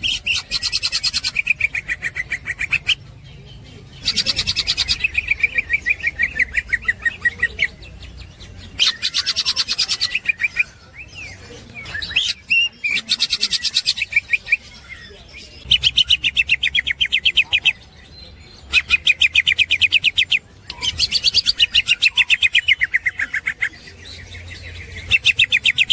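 Green leafbird (cucak ijo) singing its 'ngekek' chatter: bouts of very rapid, high repeated notes, each lasting a few seconds, broken by short pauses.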